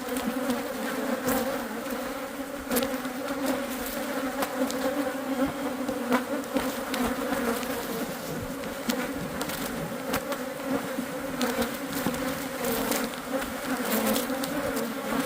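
Swarm of Saskatraz honey bees from an opened nucleus colony buzzing in a steady drone, with scattered light clicks.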